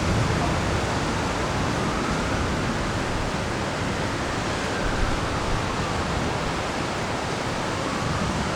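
Steady rushing hiss of a thunderstorm's rain and wind, even throughout with no thunder clap standing out.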